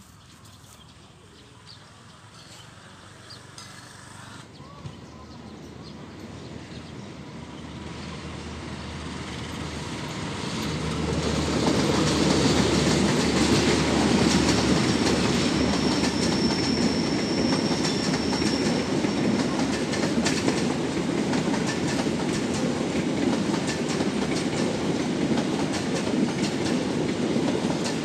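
A passing train, growing louder over the first ten seconds or so, then a steady loud rumble with the clatter of wheels over rail joints. A thin high whine sounds for a few seconds midway.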